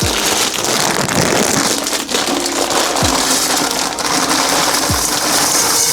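Loud sizzling hiss from the cooking pot, as liquid meets hot metal, over background music with a thud about once a second.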